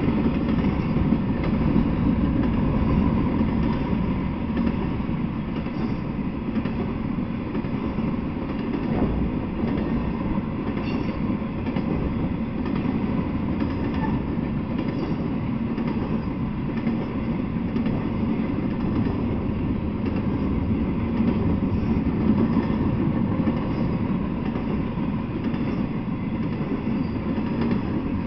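Intermodal freight train rolling past at steady speed: a continuous low rumble of its loaded flatcars' wheels on the rails.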